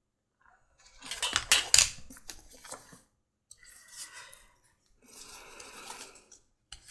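Metal hand tools clinking and rattling as they are handled on a leather workbench, with a run of sharp clicks early on and stretches of scratchy scraping near the end.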